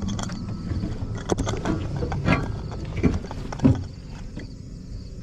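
A vehicle engine running with a low rumble, with several separate knocks and clunks over it; the rumble dies down near the end.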